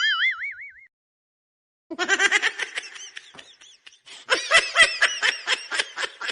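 A laughter sound effect: a quick run of high-pitched giggling that starts about two seconds in and keeps going. Before it there is a short tone that wobbles up and down in pitch and dies away within the first second.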